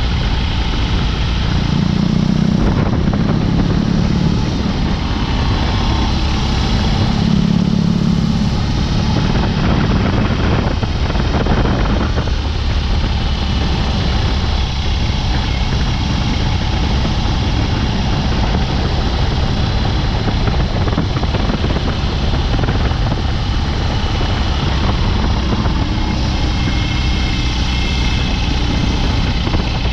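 BMW R18's 1.8-litre boxer twin running through an open Dr. Jekill & Mr. Hyde exhaust while the bike is ridden. The engine note swells louder twice, about two and seven seconds in, and shifts in pitch around ten to twelve seconds in, then settles to a steady cruise.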